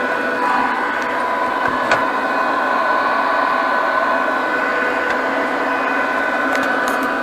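ZX7 120P inverter welding machine running with no load: its cooling fan gives a steady whirring hum with a few steady whine tones over it, and there is a single click about two seconds in.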